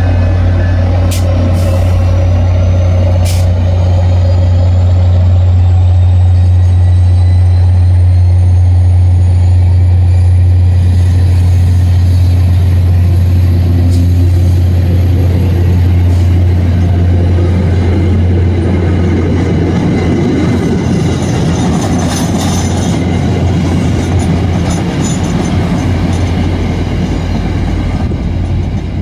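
Diesel locomotive pulling a commuter train out: a steady low engine drone with a high whine that rises in pitch over the first ten seconds or so, and a few sharp clicks near the start. From about two-thirds of the way in, the drone fades under the rumble and clatter of the passenger coaches' wheels on the rails as they roll by.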